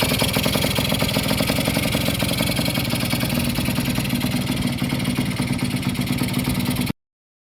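Yamaha DT100x's small single-cylinder two-stroke engine running steadily at idle after its overhaul, with a fast even beat. The sound cuts off abruptly near the end.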